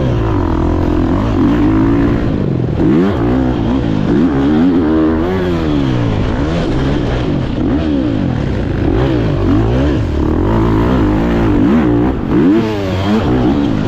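Motocross dirt bike engine running hard around the track, fairly steady for the first few seconds, then revving up and dropping back again and again, about once a second.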